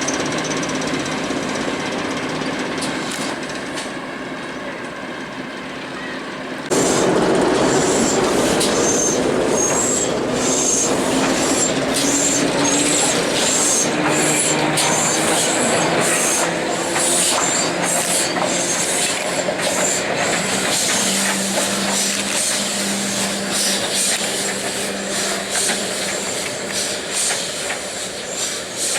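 Heritage railway train running along the track: rail and wheel noise with thin, high squealing tones and repeated clicks. It jumps suddenly louder about seven seconds in.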